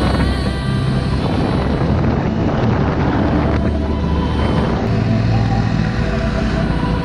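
Dirt bike engine running, its pitch shifting up and down, with an abrupt change in the sound about five seconds in.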